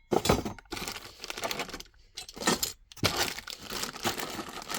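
Packaging being handled: crinkling and rustling in irregular bursts, with a few sharp clicks.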